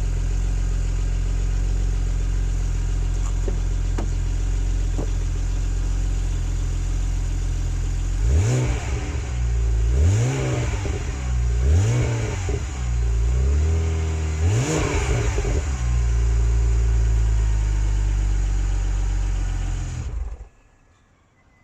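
Car engine idling through a Powerflow stainless steel aftermarket exhaust, then revved four times in quick blips, each rising and falling back to idle. The sound cuts off abruptly near the end.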